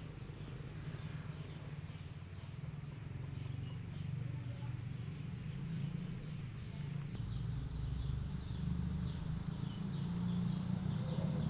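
Small birds chirping, short high calls repeated throughout, over a steady low rumble that grows louder in the second half.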